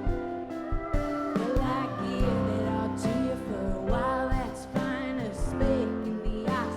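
Live band playing a song: drums, bass and guitar, with a woman singing from about a second and a half in.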